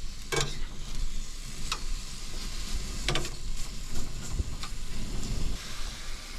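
Steady hiss of rain on the truck camper, with a low rumble underneath and three sharp knocks about a second and a half apart in the first half.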